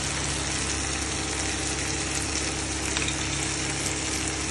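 Sliced onions and chopped tomatoes sizzling steadily in oil in a frying pan, with a fine crackle and a steady low hum underneath: the onion-tomato masala base for a butter chicken gravy being sautéed.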